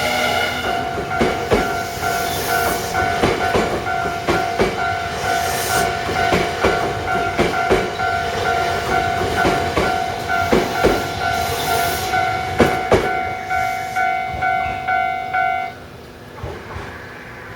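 A train passing over a Japanese level crossing, its wheels clacking irregularly over rail joints, while the crossing's warning bell rings steadily. Near the end the bell stops and the train noise drops away.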